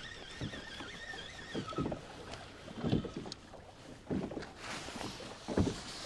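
Small waves slapping against the hull of a Perception Pescador Pilot 12 plastic fishing kayak, in irregular knocks about once a second. A light wind hiss runs under it, and a faint high warbling tone can be heard in the first two seconds.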